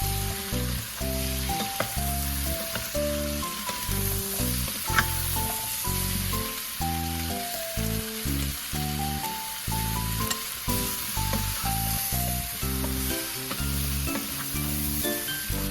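Food sizzling as it fries in a pan, a steady hiss under background music with a plucked, stepping melody and bass.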